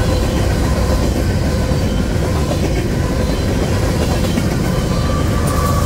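Empty covered hopper cars of a freight train rolling past at about 50 mph: a loud, steady rumble of wheels on rail, with faint ringing tones above it.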